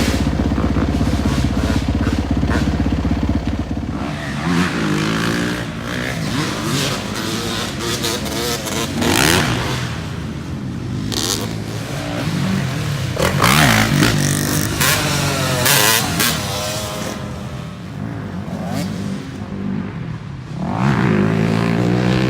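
Off-road dirt bike engines. A steady engine drone runs for the first few seconds, then engines rev and pass repeatedly, their pitch rising and falling.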